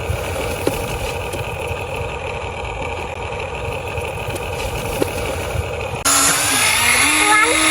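Huina RC toy excavator running: a steady mechanical hum with a couple of faint clicks. About six seconds in, a louder whine with a hiss cuts in suddenly, its pitch stepping up and down.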